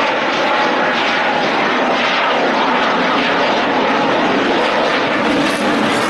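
F-16 Fighting Falcon's jet engine running loud and steady: a dense rushing noise with no clear pitch that holds unchanged throughout.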